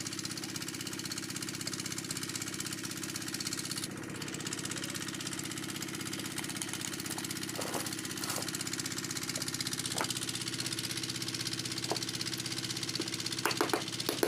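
A machine running steadily with an even hum, joined in the last second by a quick run of sharp clicks.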